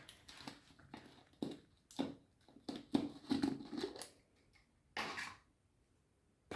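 Kitchen utensils and containers being handled: scattered light clicks and knocks with short scrapes, and a longer scrape about five seconds in.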